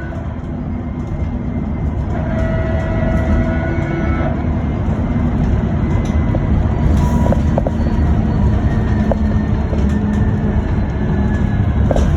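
Electric bus driving, heard from inside the cabin: a steady road and tyre rumble that grows slightly louder. For a couple of seconds an electric drive whine rises a little in pitch as the bus picks up speed, and there are a few light rattles.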